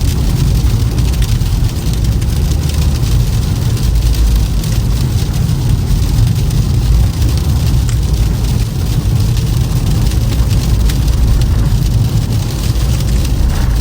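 Steady low rumble of a Toyota Camry driving on a snow-covered, icy road, with a hiss and fine crackle of tyres through snow and slush.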